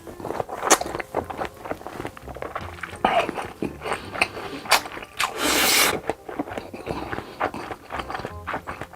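Close-miked mukbang eating sounds: bites, chewing and crackling clicks with scraping. About five seconds in there is one loud rushing noise lasting over half a second.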